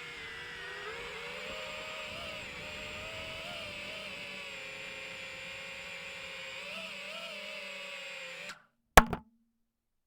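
DJI FPV drone's motors and propellers whirring steadily in flight, the pitch wavering slightly with the throttle. The whir cuts off suddenly near the end, followed by two sharp loud clicks.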